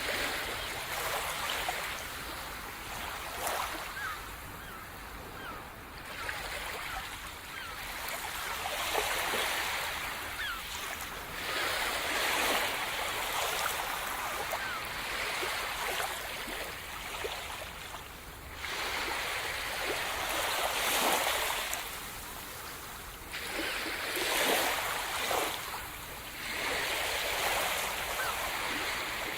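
Sea surf: waves breaking and washing onto the shore in swells every few seconds.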